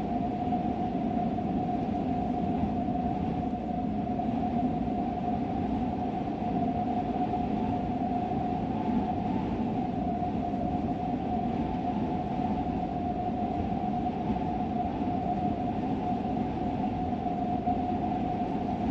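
Steady road noise from a moving vehicle: an even low rumble with a constant high whine over it.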